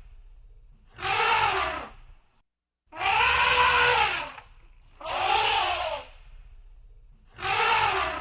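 Elephant trumpeting: four calls of about a second each, roughly two seconds apart, each rising and then falling in pitch.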